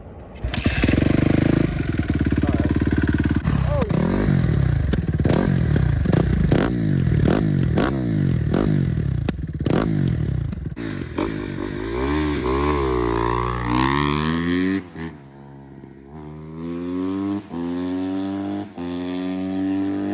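Dirt-bike engine launching hard and accelerating. Its pitch climbs and drops repeatedly as it revs through the gears, with a short dip in level about 15 seconds in before it climbs again.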